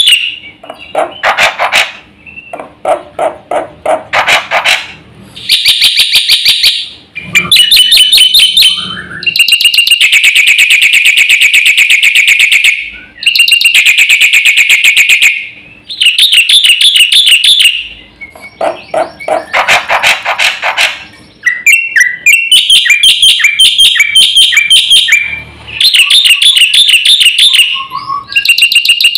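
Black-winged myna (jalak putih) singing loudly in harsh, shrill phrases of rapidly repeated notes. The bursts last a second or two each, with short pauses between them, and the phrases keep changing.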